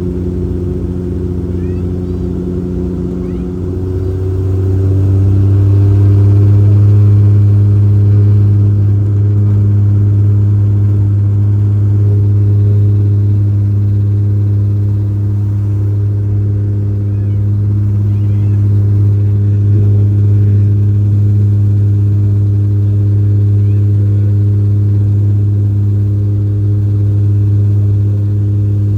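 Bombardier Dash 8 Q400 turboprop propellers heard inside the cabin as a steady, deep droning hum. About four seconds in the drone rises slightly in pitch and gets louder as engine power is increased, with the captain setting maximum thrust to fly through storm clouds.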